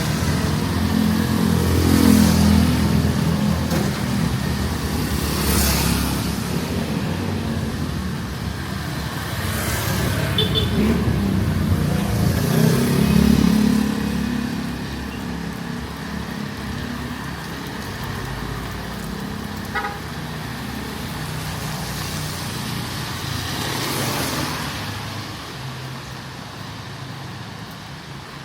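Street traffic: motor vehicles passing one after another with engine rumble that swells and fades several times, and a short horn toot.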